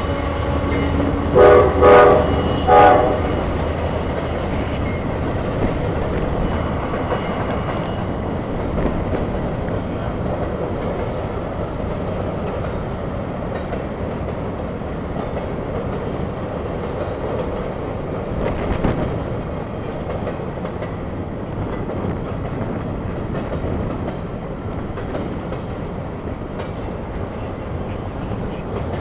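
Freight train passing: the diesel locomotive's low hum fades away while a train horn gives three short loud blasts. Autorack and flat cars then roll by with steady wheel rumble and clatter over the rail joints, and one louder clunk a little past halfway.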